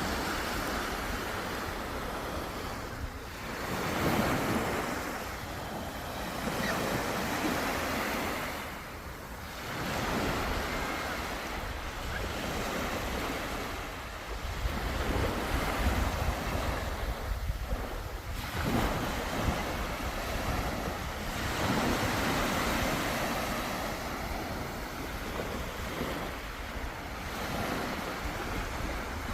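Sea waves breaking on the shore, the surf swelling and falling back every few seconds, with wind rumbling on the microphone.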